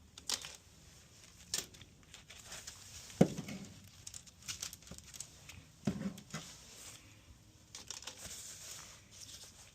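Handling noises: scattered clicks and rustling, with two louder knocks about three and six seconds in.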